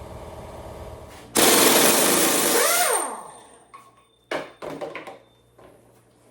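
Impact wrench hammering on the crankshaft balancer bolt of an LS engine, the bolt finally breaking loose. A steady rattle jumps about a second in to a much louder burst of a second and a half that winds down in pitch as the trigger is let go. A few short metallic clanks follow.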